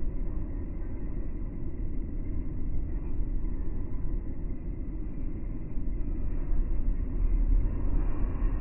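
Steady low rumble of an electric suburban train moving into the station, its sound slowed down with the slow-motion footage and deep and muffled as a result.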